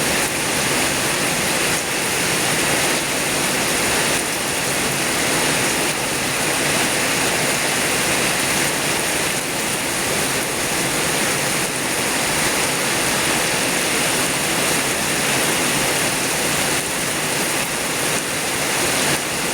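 Very heavy rain falling, a steady loud hiss with no let-up.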